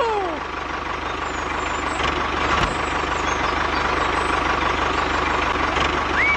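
Mini tractor's motor running steadily with a dense, fast-pulsing drone. A short rising then level tone sounds near the end.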